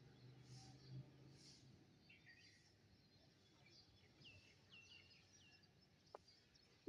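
Faint birdsong: scattered chirps, then a run of about four short, hooked high notes in quick succession. A low hum sits under the first two seconds, and a single click comes near the end.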